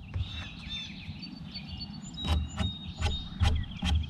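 Small birds chirping and whistling. In the second half comes a quick series of short knocks and thuds, about six of them.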